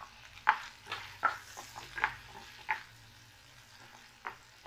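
Mushrooms sautéing in melted butter in a nonstick kadhai, a faint sizzle under a string of sharp taps and scrapes as a spatula stirs them, most in the first three seconds.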